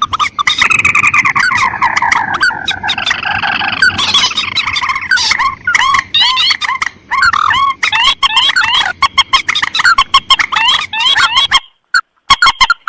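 Looped lure recording of paddy-field rail calls, mandar and tikusan (rail and crake) layered together: dense, rapidly repeated short chattering notes with sharp clicks, breaking off briefly near the end.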